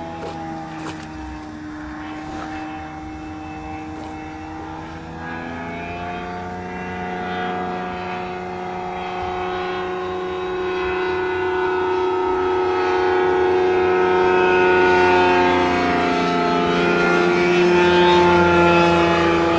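Light propeller airplane's engine flying low, its note shifting slowly in pitch and growing steadily louder as it comes closer.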